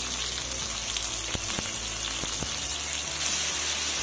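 Chopped tomatoes with dried red chillies and bay leaves sizzling in hot oil in a kadai: a steady frying hiss with a few sharp pops and spits.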